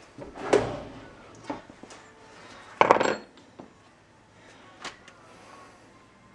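A cold chisel knocking and scraping against a kingpin bushing in a steel Datsun truck spindle: a few irregular metal clinks, the loudest about three seconds in.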